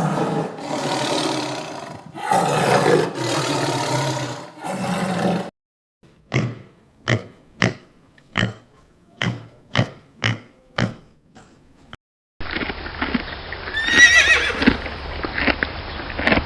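Horse sounds: several long, rough, breathy calls, then a run of short sharp knocks about two a second, then a whinny about two-thirds of the way through over a steady background of noise.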